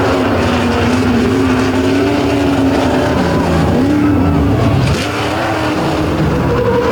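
Monster truck's Ford Windsor V8 racing at high revs on the obstacle course. The engine note holds steady, then dips and climbs back twice about midway through.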